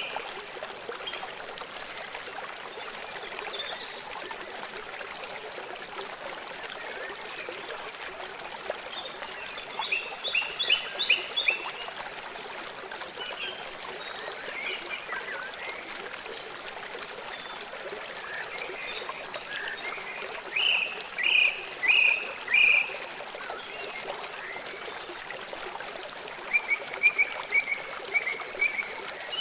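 Forest ambience: a steady rush of flowing stream water, with birds calling in short runs of quick chirps every several seconds.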